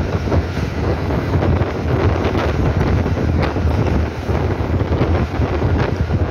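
Rumble of a moving train heard from an open window, with wind buffeting the microphone and a few sharp clicks from the wheels on the track.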